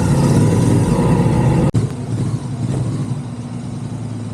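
Motorcycle engine running under way, loud and steady. It cuts off abruptly about two seconds in and gives way to a quieter, steady engine hum.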